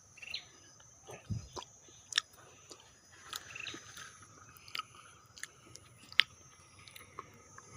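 A person biting into and chewing small serai kayu fruits: scattered crunches and sharp clicks, the sharpest about two seconds and about six seconds in, between softer mouth sounds.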